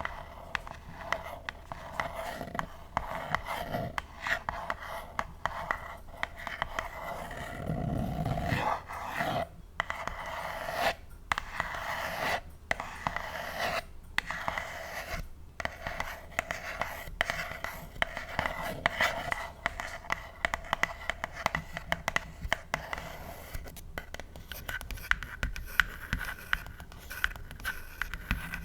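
Long artificial nails scratching and tapping on a pink box: a dense, continuous run of scrapes and small clicks, broken by a few brief pauses around the middle.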